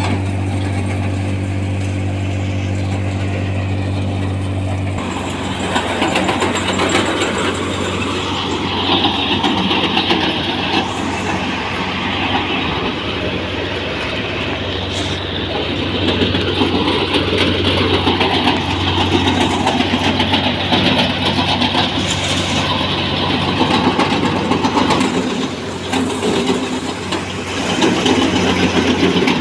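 A tractor engine running a thresher: a steady engine hum for about the first five seconds, after which a louder, rougher, noisier machine sound sets in and carries on over the engine as the thresher works.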